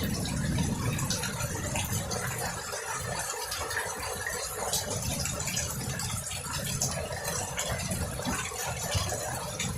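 Steady rain in a thunderstorm with scattered ticks of drops, over a low rumble that is strongest in the first second.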